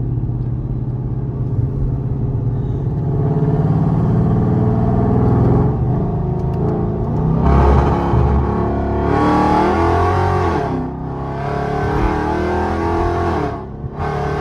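Supercharged 5.7-litre Hemi V8 of a Dodge Charger R/T running loud with the supercharger whine, first at a steady note. From about halfway it accelerates hard in several pulls, the pitch rising with each one.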